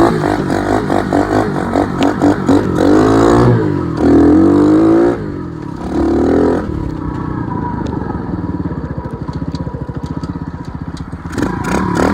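Dirt bike engine revved in several short blips, settling to a steadier idle for a few seconds, then revved again near the end.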